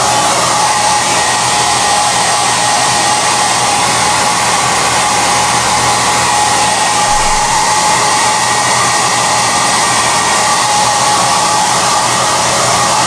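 SOUNATE high-airflow hair dryer running steadily: a loud, even rush of air with a steady motor whine.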